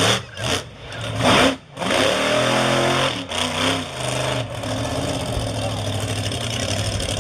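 Monster truck engine revving hard in bursts, its pitch climbing and falling, then held at a steady high run for the last few seconds.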